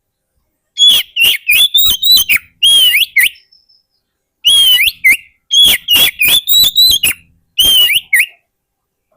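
Oriental magpie-robin (kacer) song: two loud phrases of quick whistled notes mixed with sharp clicks, the second starting after a short pause near the middle. It is a recording of the kind played as a lure call for wild magpie-robins.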